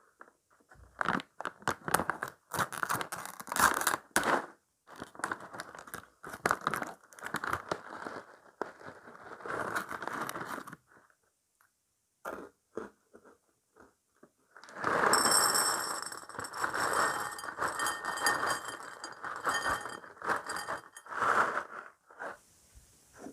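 Close-up crunching and crinkling of breakfast cereal in irregular bursts, a mukbang eating session, with a pause of a few seconds about halfway and a denser stretch after it.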